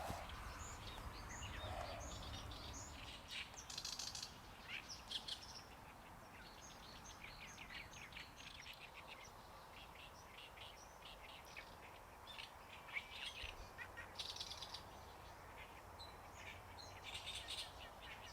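Small birds chirping faintly, many short high calls in quick irregular series throughout.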